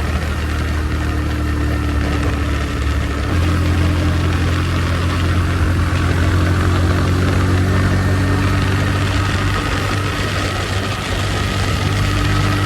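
Motorcycle engine running steadily, its note stepping up about three seconds in and then holding.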